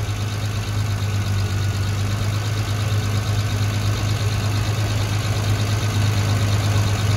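Triumph TR6's 2.5-litre petrol-injected straight-six idling steadily while the distributor is turned to set the ignition timing by vacuum.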